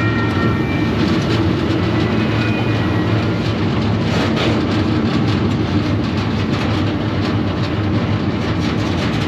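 Freight train rolling along the rails, heard from on board a car: a steady, loud rumble with rattling and the clickety-clack of wheels over the track.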